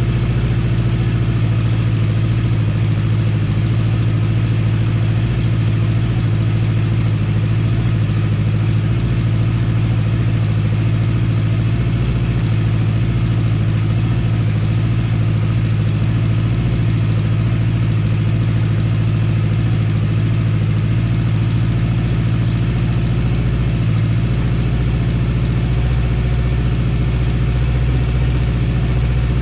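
Honda CB750 Four's air-cooled inline-four engine idling steadily through its original HM341 mufflers, an even exhaust note with no revving.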